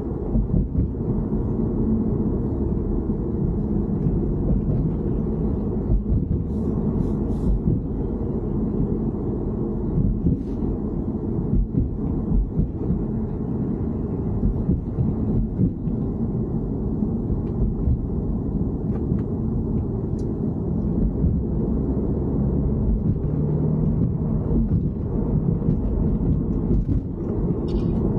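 Steady low rumble of a BMW E90 3 Series in motion, with a few faint ticks over it.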